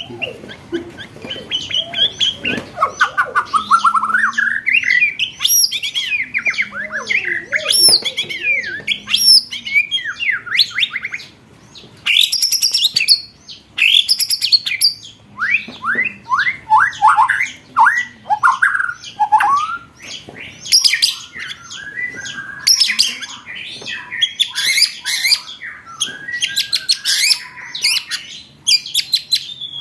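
Songbird song of the kind used to train competition birds: fast rolling trills, whistled notes sweeping up and down, and runs of rapid sharp 'shot' notes, loudest in the second half.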